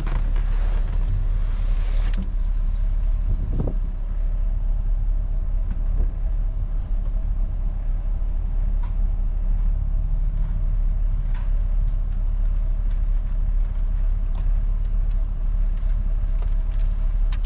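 A truck running, heard from inside the cab as a steady low rumble. A brief rustling hiss sounds in the first couple of seconds.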